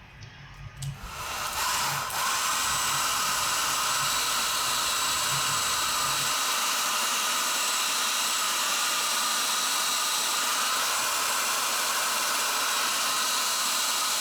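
Heat gun switched on about a second in, building to a steady blowing hiss with a thin whine, warming a rubber spark plug boot to soften it so it stretches over the wire's terminal fitting.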